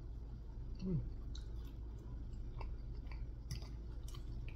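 Close-up eating sounds: soft chewing with faint mouth clicks and a fork touching a plate, with a short hum that falls in pitch about a second in.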